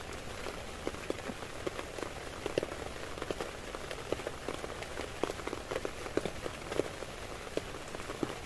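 Heavy rain falling on a tent, a steady hiss with many separate drops striking the fabric at irregular moments.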